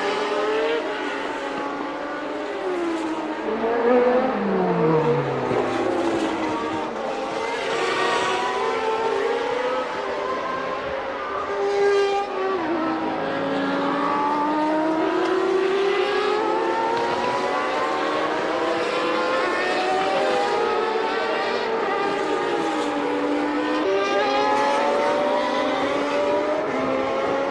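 Several 1989 Formula One cars' naturally aspirated 3.5-litre engines at high revs, overlapping one another. Their pitch keeps climbing and dropping as they change gear and pass.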